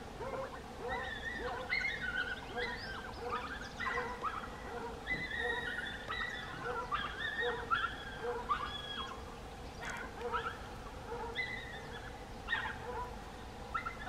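Birds chirping and twittering in a continuous stream of short, varied notes with no real pause. One sharp click comes about two thirds of the way through.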